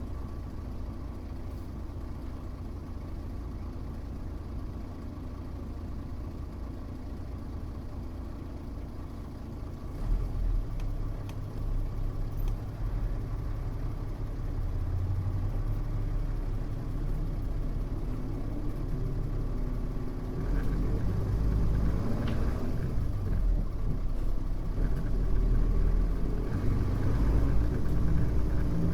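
Mitsubishi Fuso U-MK618J route bus heard from on board: its diesel engine idles steadily for about ten seconds. Then the sound grows louder as the bus pulls away and accelerates, the engine pitch rising in steps.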